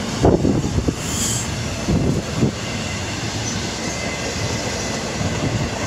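Norfolk Southern intermodal train of double-stack well cars rolling slowly past at close range, steel wheels rumbling and clunking over the rails with a faint wheel squeal, wind buffeting the microphone.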